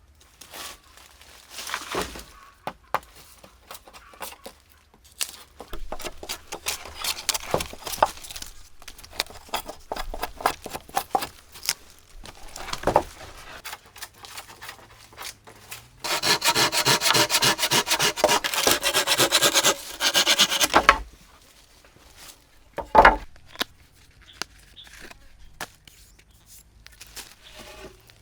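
Wood being worked by hand: scraping and rubbing strokes with scattered knocks, then a loud, even stretch of about five seconds, like sawing, starting about sixteen seconds in.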